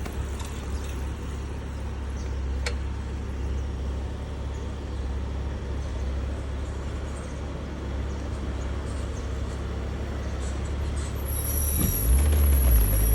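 Vehicle engine running with a steady low rumble, swelling louder about twelve seconds in. A thin high whine joins shortly before the swell.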